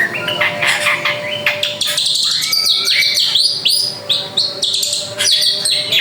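Drongo singing a fast, varied song of sharp chirps and rising whistled notes.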